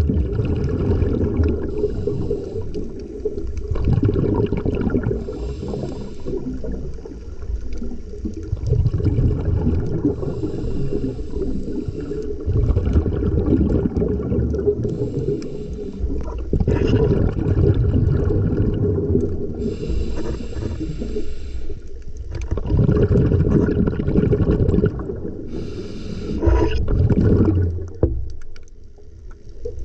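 A scuba diver breathing underwater through a regulator: short hissing inhalations alternate with longer rumbling, bubbling exhalations, over several breaths.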